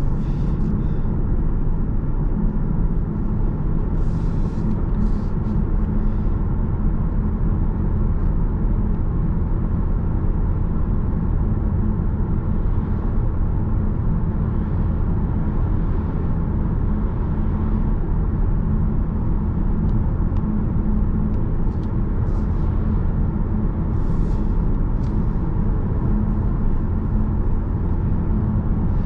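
Car engine hum with tyre and road noise, heard from inside the cabin while cruising at a steady speed.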